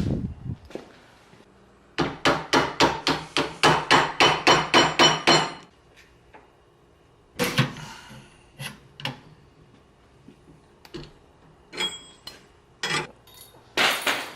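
Hammer striking metal: a rapid run of ringing blows, about five a second for some three and a half seconds, followed by a few scattered knocks and clanks of metal parts.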